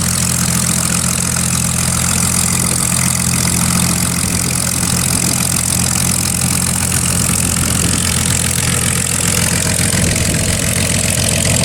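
P-40 Warhawk's V12 piston engine idling steadily on the ground before takeoff, a low even drone that eases a little near the end.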